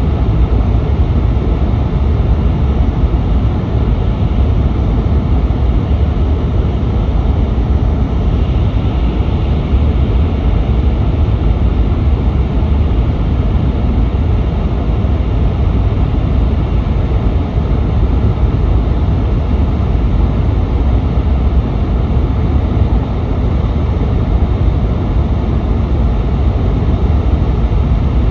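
Cabin noise of an N700S Shinkansen running at high speed through a tunnel: a loud, steady deep rumble of wheels on rail and air rushing past, with no let-up.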